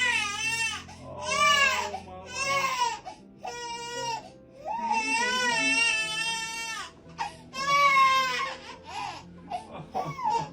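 A baby crying in a series of long, high, wavering wails, about six bouts with short breaths between, trailing off into brief whimpers near the end. The crying comes just after the baby has heard sound for the first time through a new hearing device.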